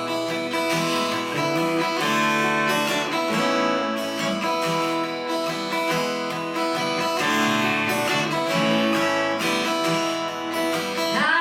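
Acoustic guitar strumming a steady chord pattern as the instrumental intro of a song.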